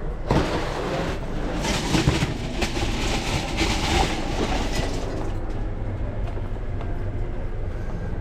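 A steady low mechanical drone, with clattering and rustling over the first five seconds or so.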